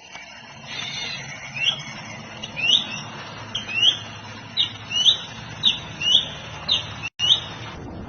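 A bird calling: a series of short, sharply rising notes, about two a second, over a steady low background hum.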